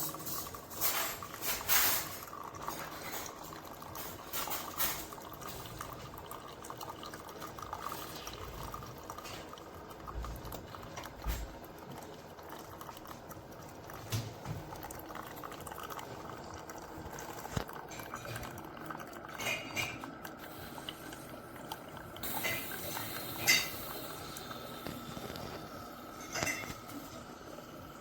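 Coffee maker brewing: water gurgling and trickling into a cup, with scattered clicks and taps of dishes, a louder cluster of them near the end.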